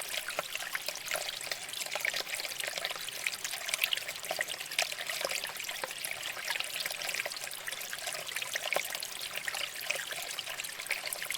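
Shallow water flowing and trickling over rocks, a steady babble full of small splashes and gurgles.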